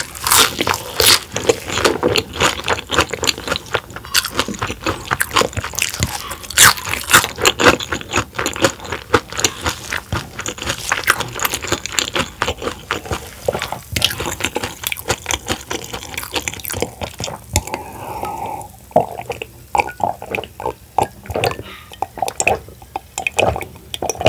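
Close-miked crunching and chewing of deep-fried soft-shell crab, the crisp batter and thin shell crackling with each bite. Over the last several seconds the crunching thins out into fewer, softer, wetter mouth sounds.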